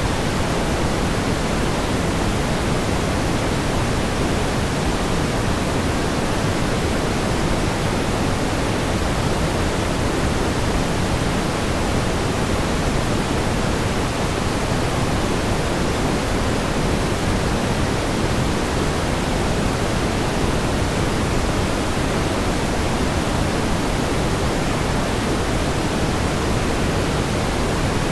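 Steady pink noise: an even, unbroken hiss, heavier in the low end than white noise, with no changes or events.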